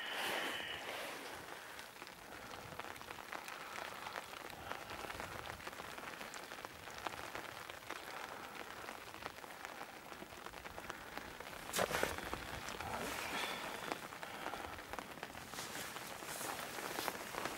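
Rain pattering steadily on a fishing umbrella's canopy as a dense crackle of fine drops. There is one sharp click about twelve seconds in.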